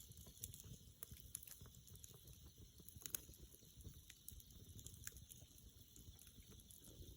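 Wood campfire crackling faintly, with irregular sharp pops and snaps over a low steady rumble.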